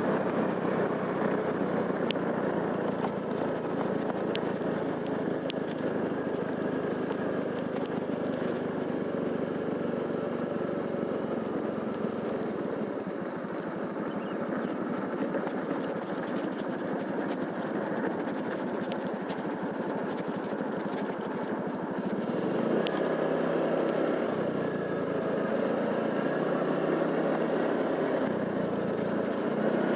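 Motorcycle engine running steadily under way, getting louder with a change in note about 23 seconds in, with a few faint ticks.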